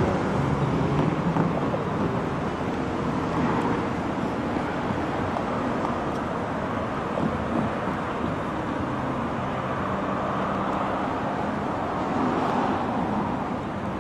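Freight train running, its locomotive engines giving a steady drone with several low tones that shift a little in pitch, over a rumbling noise.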